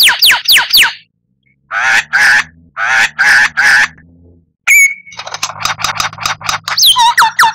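White-rumped shama (murai batu) singing: a few quick falling whistles, then a run of harsh raspy notes, then a fast crackling rattle that breaks into more falling whistles near the end.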